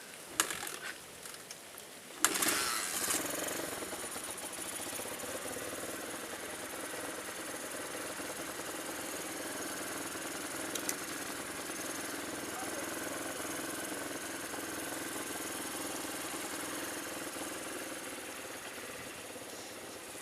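A couple of sharp clicks, then a small engine starting about two seconds in and running steadily at idle.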